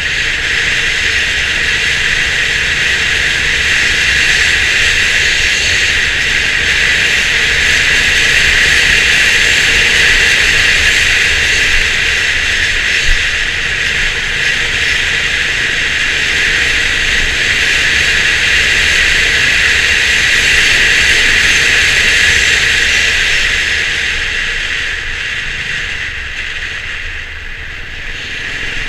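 Steady wind and road noise of a Honda CB350 RS being ridden, with its single-cylinder engine running low beneath; it eases for a few seconds near the end.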